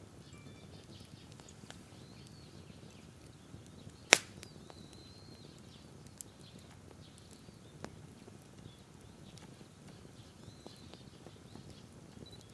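Wood campfire burning with scattered crackles, one loud sharp pop about four seconds in and two smaller ones later. Faint birdsong in the background.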